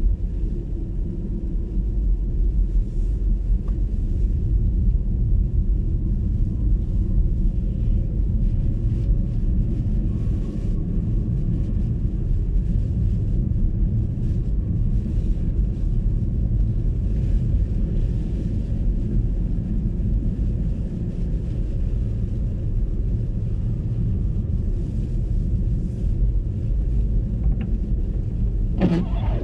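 Steady low rumble of tyre and road noise from an MG ZS EV electric car driving on snowy roads, with no engine note. A short sharp sound cuts in about a second before the end.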